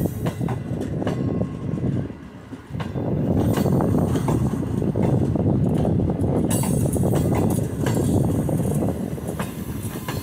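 Green Line Express passenger coaches rolling past, a steady rumble of steel wheels on the rails with sharp clacks as the wheelsets cross rail joints. It dips briefly about two seconds in.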